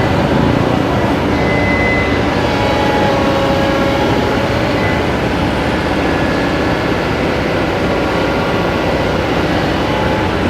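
Water rushing through a freshly dredged canal channel: a loud, steady rush with no breaks.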